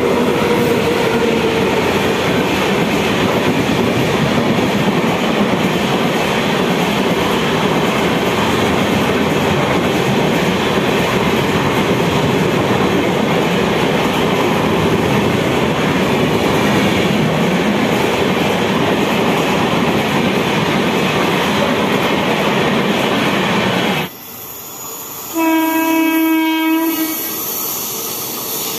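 An electric-hauled express train running past a station platform at speed: the steady loud noise of its coaches and wheels going by. After a cut near the end, an approaching WAP-7 electric locomotive sounds its horn in one steady blast of about a second and a half.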